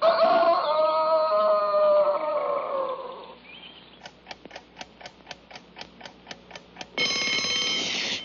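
A short falling phrase of cartoon score music, then a clock ticking about four times a second, then an alarm clock bell ringing loudly near the end.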